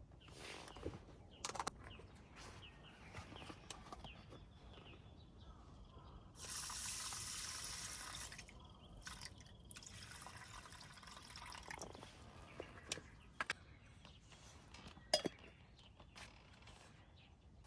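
Liquid pouring and dripping, faint, with scattered small clicks and knocks; a steadier pour of about two seconds comes near the middle.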